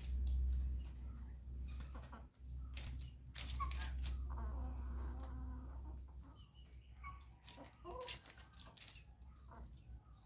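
Parrot making short squawks and calls, with sharp clicks and rustles throughout, over a steady low hum.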